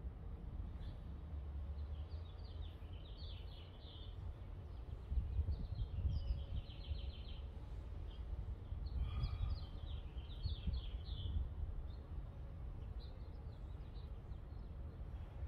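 Small birds chirping in several short spells of quick, high twittering, over a steady low background rumble.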